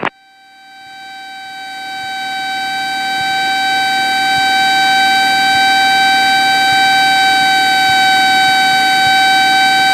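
A Cessna 172's stall warning horn sounding as one continuous steady tone, swelling over the first few seconds and then holding loud. It warns that the wing is nearing a high angle of attack, which is common in a steep turn.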